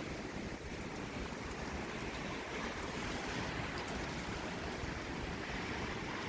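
Strong gusting wind with heavy rain, the wind rumbling on the microphone in a steady rush that grows slightly louder.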